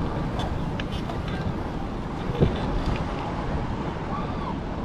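Wind buffeting the microphone of a chest-mounted action camera on a moving e-bike, a steady low rumble, with a single thump about two and a half seconds in.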